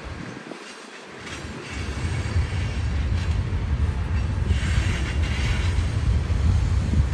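Freight train's covered hopper and tank cars rolling past on the tracks: a steady low rumble that grows louder about two seconds in.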